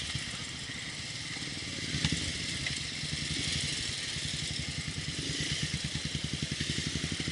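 Motorcycle engine running at a steady low speed, its firing pulses plainly heard over an even hiss of wind and road noise.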